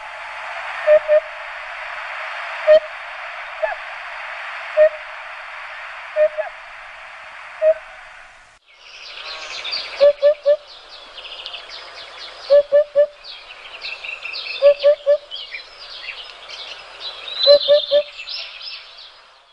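Recorded birdsong. First a steady hiss with a single low call every second or two. About nine seconds in it changes abruptly to busy high chirping over a low three-note call repeated every two to three seconds.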